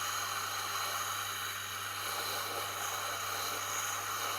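Tormek T8 wet grinder running, with a stone grader pressed against the edge of the slowly turning grinding wheel to round the edge over: a steady grinding hiss over the low hum of the motor.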